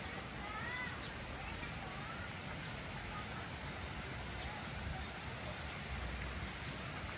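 Birds calling: a few short whistled notes that rise and fall, and brief high chirps, heard faintly over a steady outdoor hiss.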